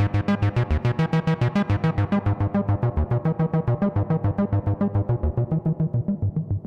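Behringer TD-3-MO bass synthesizer playing a fast repeating note sequence, about eight notes a second, growing steadily duller as its bright upper tones fade away, then stopping right at the end.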